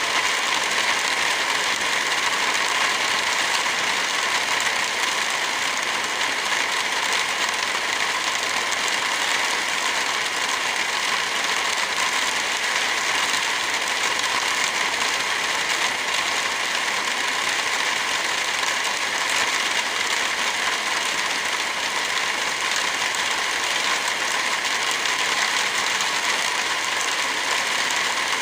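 Steady rain with a crackling wood fire: an even, unbroken hiss of rain with faint small pops and ticks scattered through it.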